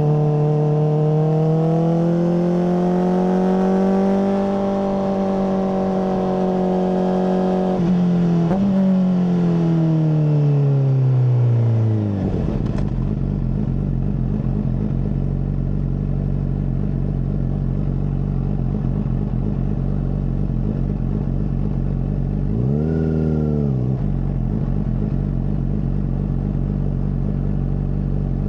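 Honda CBR600RR inline-four through a MIVV full exhaust, running at steady revs for about eight seconds, then winding down as the throttle closes and settling to a steady idle about twelve seconds in. About 23 seconds in, a single short throttle blip rises and falls back to idle.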